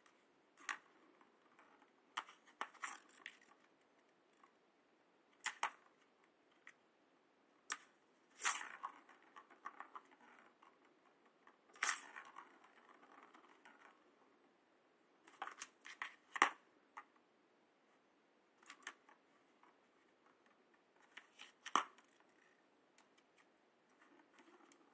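Kitten at play: irregular light taps, scuffles and rustles, in short bursts a second or a few seconds apart.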